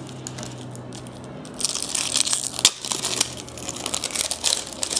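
A trading-card pack's foil wrapper being torn open and crinkled by hand: dense rapid crackling with sharp clicks that starts about a second and a half in, over a low steady hum.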